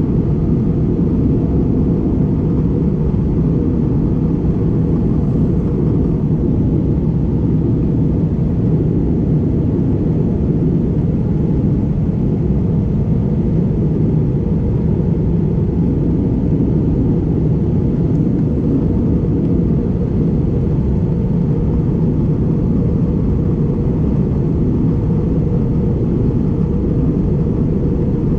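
Steady low rumble of engine and airflow noise inside the cabin of an Airbus A320neo (A320-271N) airliner in flight.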